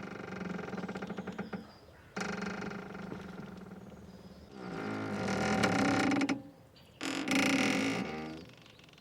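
Boat mooring rope squeaking and creaking under strain as the boat shifts: about four drawn-out, pitched groans, the last two loudest.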